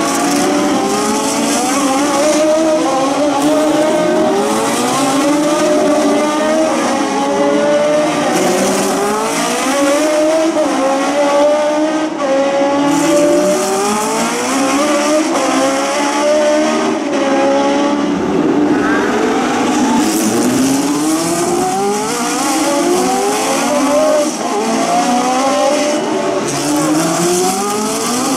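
Several historic 1966–1972 Formula 1 cars racing, their engines running loud and climbing in pitch through the gears again and again, the sounds of several cars overlapping.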